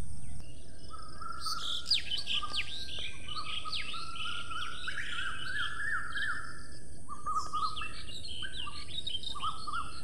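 Several small birds chirping and singing in quick, overlapping calls, starting about a second and a half in, thinning briefly, then picking up again near the end.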